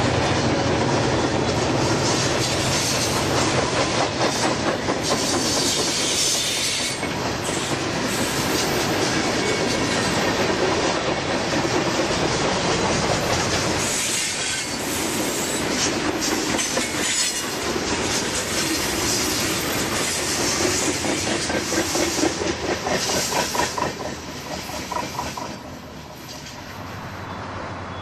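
Train cars rolling past, wheels clicking over rail joints, with some wheel squeal; the sound drops away near the end.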